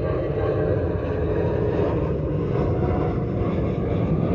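Steady low rumbling noise with no speech.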